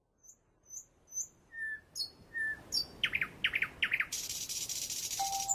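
Birds chirping: a few short, very high chirps, then whistled notes and quick downward-sweeping calls that get louder, then a dense, high buzzing trill for about a second and a half near the end.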